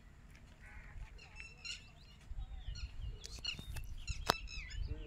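Birds chirping in short repeated calls, with a single sharp click about four seconds in.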